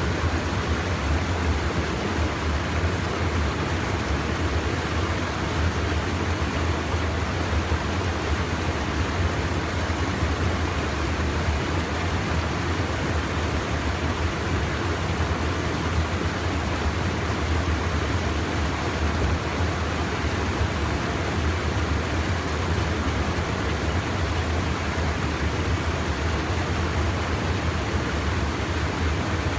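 Steady rush of stream water pouring over a small check dam, an even hiss with a low rumble that does not change.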